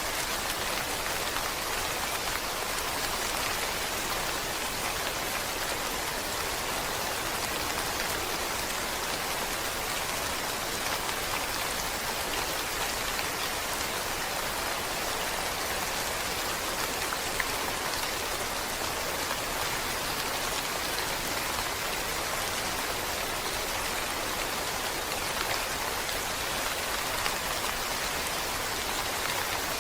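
Steady rain falling, a dense even hiss with a few separate drops ticking through it.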